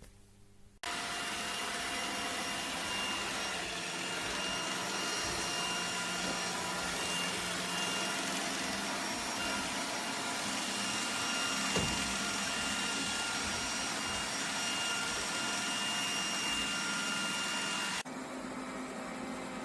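The vacuum motor of an iRobot Roomba 105 Combo starts abruptly and runs steadily with a whine, then cuts off suddenly near the end, leaving a quieter hum.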